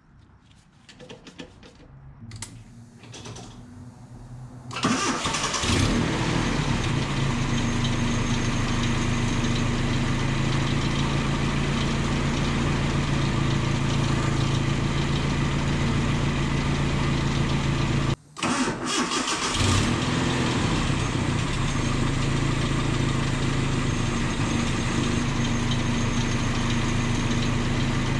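1988 Nissan D21 pickup's engine starting about five seconds in, then running at a steady idle. The sound breaks off for a moment about two-thirds of the way through and returns unchanged.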